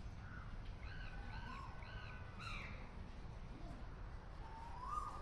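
Birds calling faintly outdoors: three short arched calls about half a second apart, then a rising call near the end, over a low steady rumble.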